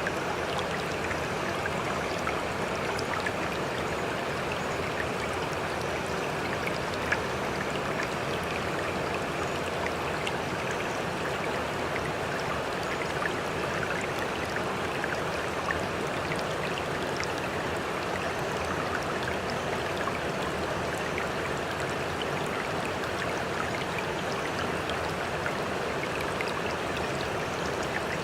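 Sea water lapping and trickling in a steady wash, with small splashes scattered throughout. The level stays even, with no swell of breaking waves.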